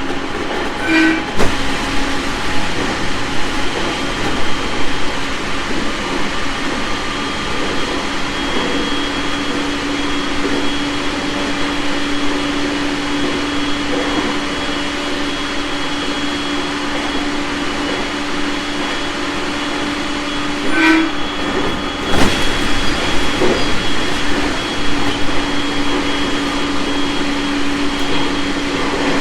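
JR East 701 series 1000 electric multiple unit running at speed: a steady rumble of wheels on rail with a steady low hum. A clatter of wheels over rail joints comes about a second in and again about two thirds of the way through.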